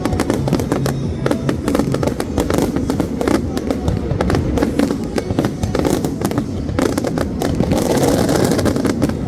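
Fireworks going off in rapid succession, a dense run of bangs and crackles, with music playing under them.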